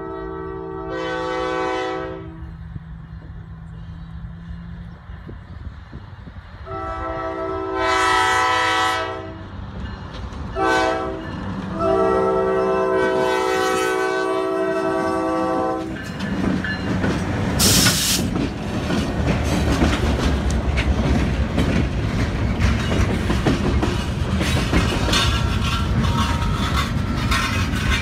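Diesel locomotive horn sounding the grade-crossing signal: two long blasts, a short one and a final long one. The locomotive and its loaded lumber flatcars then pass close by, with the heavy rumble and clickety-clack of the wheels over the rail joints and a brief hiss partway through.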